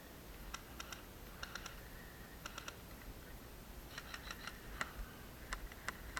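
Airsoft guns firing across the field: sharp clicking shots, some single and some in quick strings of two or three, with more of them near the end.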